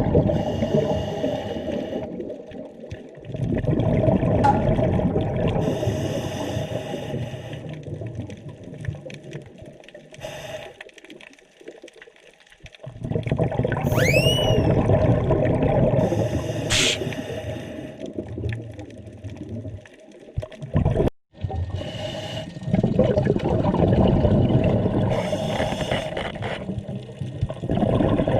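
Scuba diver breathing through a regulator underwater: long bursts of exhaled bubbles rumbling past, with quieter hissing inhalations between them. A brief rising squeak comes about halfway.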